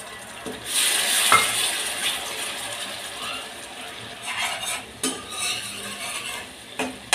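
Yogurt sizzling in hot oil as it is stirred in with a metal spoon. The spoon scrapes and clicks against the kadhai. The sizzle swells up under a second in.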